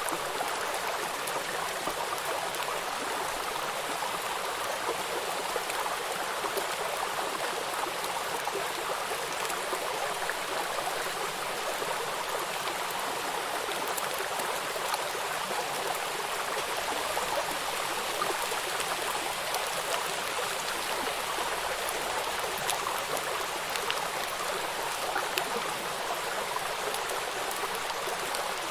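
Rain falling on a flowing river: a steady rush of running water, with the patter of scattered raindrops ticking on the surface.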